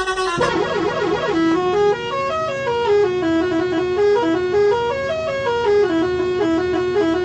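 A tune of quick stepping notes in a buzzy, horn-like tone, running up and down the scale over a steady low drone. It starts about half a second in, after an abrupt change of sound.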